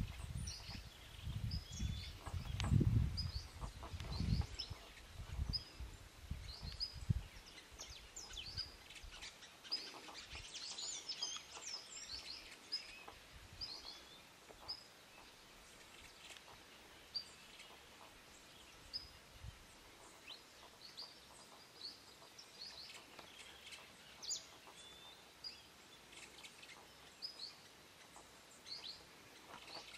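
Background birdsong: a small bird repeating a short high chirp roughly once a second, with a busier run of several bird calls about ten to twelve seconds in. Irregular low rumbling sits under the chirps for the first several seconds.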